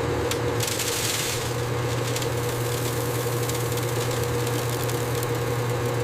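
Factory machinery running with a steady low hum and a constant mid-pitched tone, with a brief hiss about a second in.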